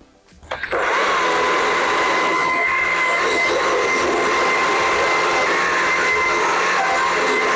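Small carving chainsaw revving up about half a second in, then running at full throttle with a steady high whine as it cuts into the wooden carving.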